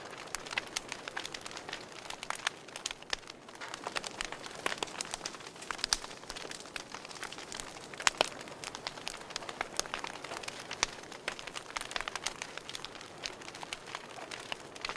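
Wood fire crackling in a fireplace: a steady run of irregular sharp pops and snaps over a soft hiss, with a few louder pops about 6 and 8 seconds in.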